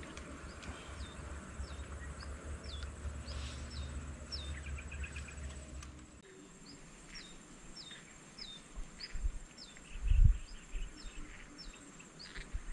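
A bird calling over and over, short high notes that each slide downward, about two a second, over a faint steady high insect hum. A low rumble fills the first half, and a couple of dull thumps come about nine and ten seconds in.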